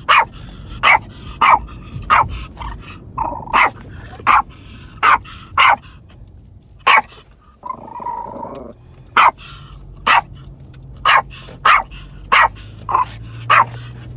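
Dog barking repeatedly, sharp barks about one every half second to second, with a short break and a longer, drawn-out sound from the dog about halfway through.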